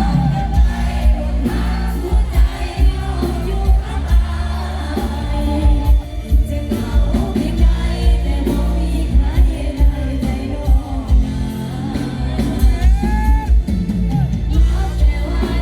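A live band playing a Thai pop song with a heavy, steady bass beat under a bending sung melody line.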